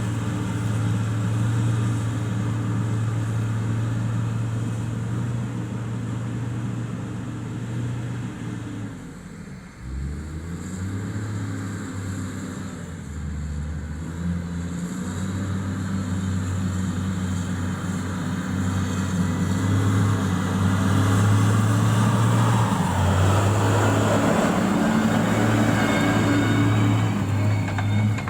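Heavy road-construction machine's diesel engine running steadily. About nine seconds in the revs drop briefly, then build back up, and the engine runs louder near the end.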